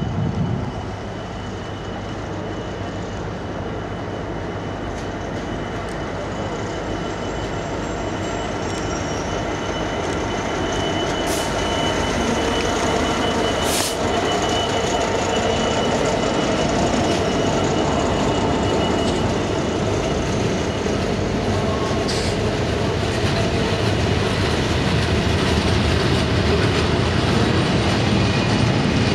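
Class 66 diesel-electric freight locomotive, with a two-stroke EMD V12 engine, approaching and running past, steadily getting louder. It is followed by a long train of hooded freight wagons rolling by, with a couple of sharp clicks partway through.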